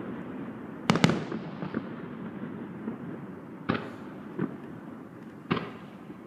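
Aerial fireworks exploding: a loud double bang about a second in, then three lighter bangs later on, over a steady background noise that slowly fades.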